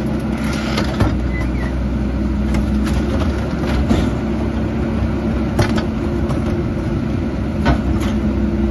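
Garbage truck engine running steadily, with a few sharp knocks and clunks.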